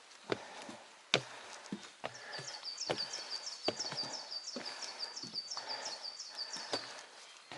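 Hiker's footsteps on a mountain trail, a step landing about every three-quarters of a second. A high chirping call repeats rapidly in the background from about two seconds in until near the end.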